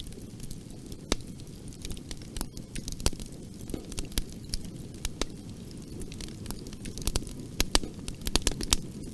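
Fire in a fireplace crackling: irregular sharp pops and snaps over a steady low rumble of the flames. The pops come thicker and louder near the end.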